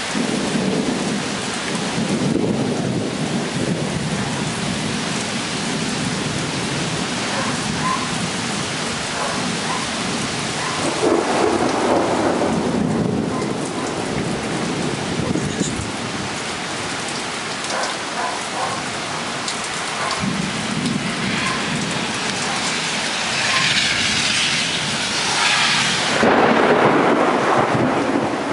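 Heavy rain pouring steadily in a severe thunderstorm, with thunder rolling several times; the longest roll comes near the end.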